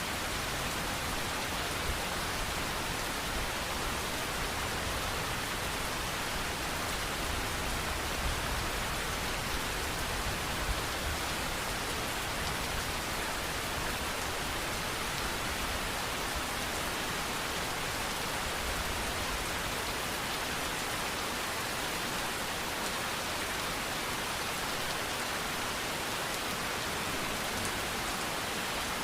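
Steady rainfall: an even, continuous hiss of rain falling on surfaces, with a faint low rumble in the first half.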